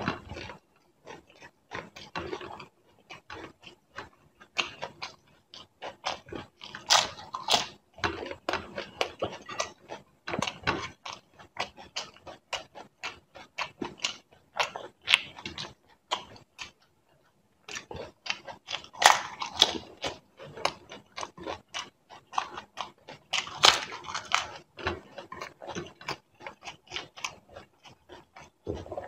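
A person chewing and biting pieces of crisp fried pani puri (golgappa) shell, with crunches and wet mouth clicks in irregular bursts. The chewing stops briefly a little past the middle.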